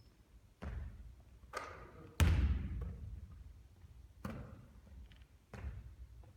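Basketball bouncing on a gym floor: five separate echoing thuds, the loudest about two seconds in.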